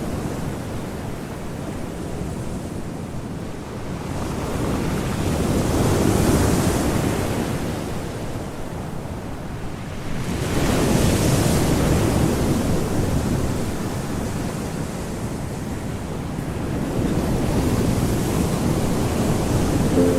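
Ocean surf: waves washing in and drawing back, the rushing noise swelling three times before easing again.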